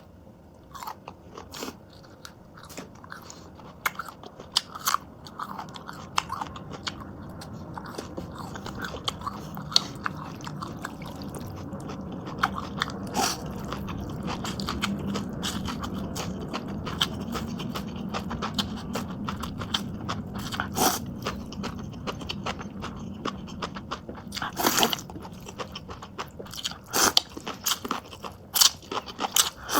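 A person biting into and chewing a fresh shuan shuan la ('devil') chili pepper close to the microphone. Scattered crisp crunches come over a low steady hum, with the sharpest crunches near the end.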